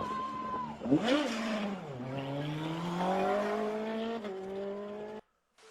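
Road vehicle sounds: a gliding tyre squeal, a sharp bang about a second in, then an engine climbing steadily in pitch as it accelerates, cut off suddenly near the end.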